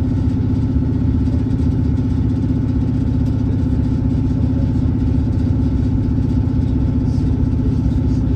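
A diesel train's engine runs steadily, heard from inside the train as a loud low hum whose pitch holds even.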